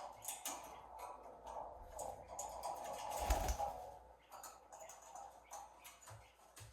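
Irregular light clicks and taps, with a louder, deeper thump a little past three seconds in.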